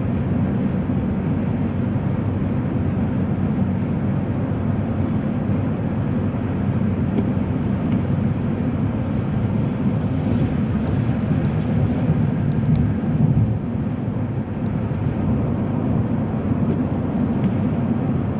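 Steady low rumble of a car being driven, heard from inside the cabin: tyre and engine noise at a constant road speed.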